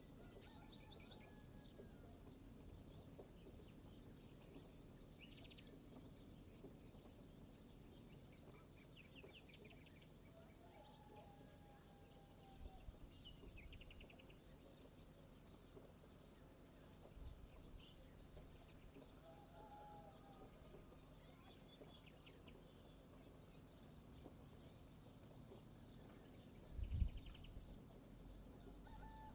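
Several wild birds chirping and trilling, with a few lower gliding calls, over a faint low outdoor background. Brief low thumps come twice in the middle and once, louder, near the end.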